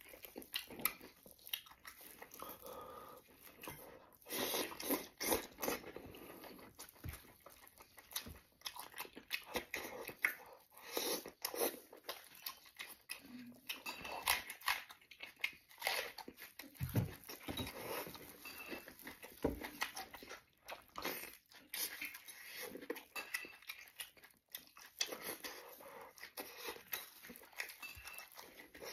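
Close-miked chewing and lip-smacking of a person eating bread and braised lamb, with wet mouth sounds and soft bites in uneven bursts.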